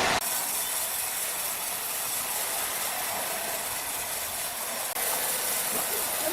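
Sawmill machinery running: a steady hissing mechanical noise that steps up slightly in level about five seconds in.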